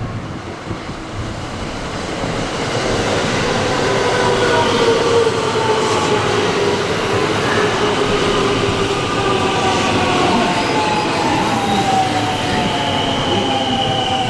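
JR West electric train pulling into the platform and braking, its running noise growing louder over the first few seconds while the motors' whine falls steadily in pitch as it slows.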